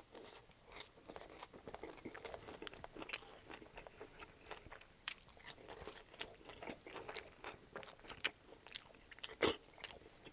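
Close-up chewing of a mouthful of Subway sub sandwich loaded with vegetables: wet crunching and irregular mouth clicks. A few sharper, louder clicks come near the end.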